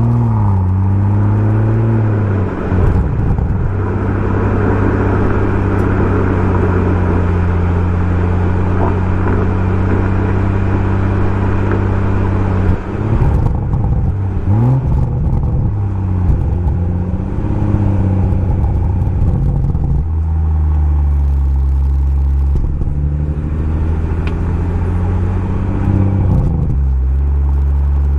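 Exhaust note of a BMW M140i's turbocharged three-litre straight-six through a Remus aftermarket exhaust, under way. The engine pitch rises at the start, then holds steady. Revs swing up and down briefly around the middle and again near the end before settling back to a steady drone.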